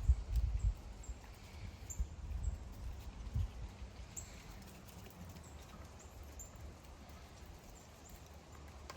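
Wind buffeting the microphone in gusts, strongest in the first second and again around two to three seconds in, then settling to a lower rumble.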